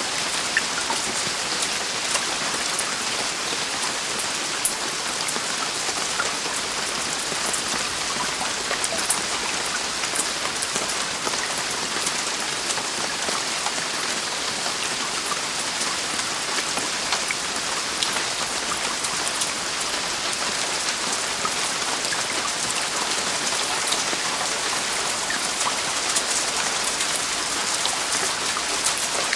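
Heavy rain falling steadily on a roof, an even hiss with many small drop ticks through it.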